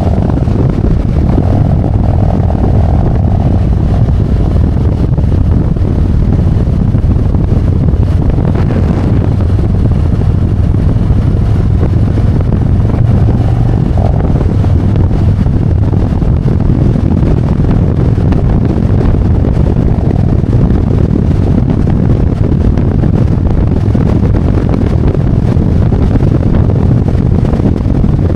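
Harley-Davidson Road Glide's V-twin engine running steadily under way, with wind rushing over the microphone.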